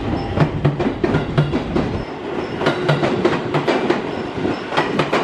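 Train wheels clattering over rail joints and points in a fast, uneven run of clacks, with a low rumble under them that drops away about two seconds in.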